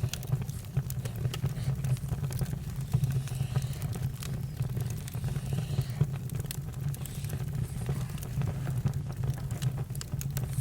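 Campfire burning: frequent irregular crackles and pops over a steady low rumble.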